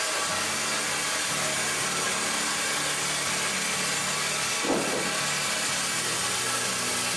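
Sawmill band saw running and cutting through a softwood log: a steady hiss of sawing over a low machine hum, with a brief extra sound about five seconds in.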